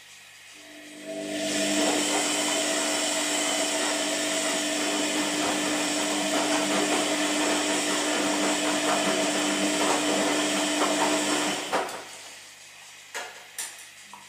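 Washing machine motor starting up, running steadily with a hum and whir for about ten seconds, then stopping abruptly. Two short clicks follow near the end.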